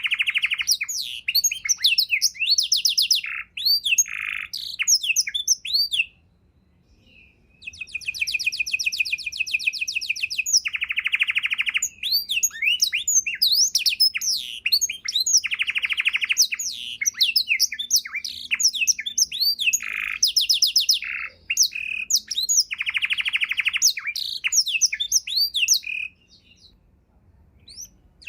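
Domestic canary singing a long, richly varied song of fast trills, rolls and sweeping notes, with two short pauses, one about six seconds in and one near the end.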